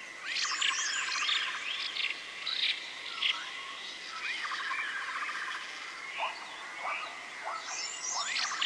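Forest ambience of many birds chirping and calling in quick, overlapping clusters of rising and falling notes, over a steady high-pitched drone like insects.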